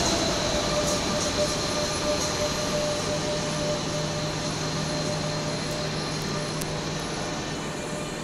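Renfe Rodalies electric commuter train pulling out of the platform, its running noise with a steady motor whine slowly fading as it moves away.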